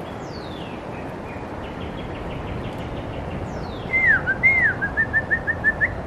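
A songbird singing: a few faint falling whistled notes, then about four seconds in two loud slurred notes followed by a quick run of short rising notes. Under it, a steady rush of wind.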